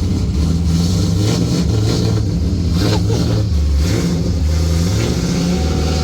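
Cammed 4.8-litre LS V8 with long-tube headers, running loud at low revs with its pitch wavering slightly but no big revs.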